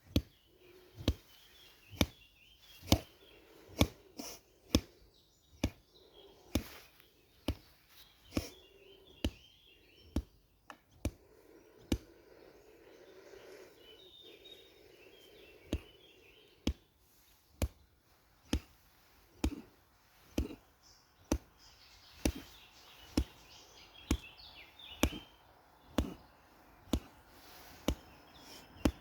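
Repeated sharp strikes against the rib cage for body conditioning, about one a second, with a pause of about four seconds near the middle before they resume.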